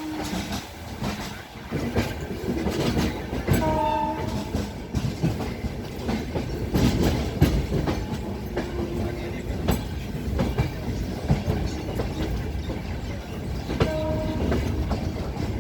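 Train rolling along the track with a steady rumble and wheels clacking over rail joints. Brief pitched tones sound about four seconds in and again near the end.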